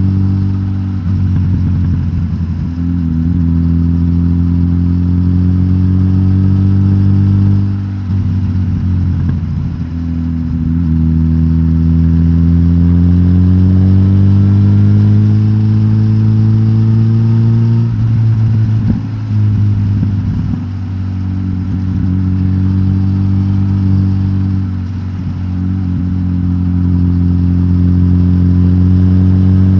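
Suzuki GSX-S1000GT's K5-derived inline-four engine running through a de-catted stock exhaust. The engine note holds steady, climbs slowly in pitch for several seconds, then drops back about 18 seconds in, with a few brief dips in loudness.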